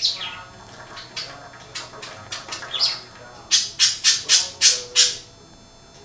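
Budgerigars chattering and squawking: scattered short calls, then a quick run of six loud harsh squawks about three and a half seconds in.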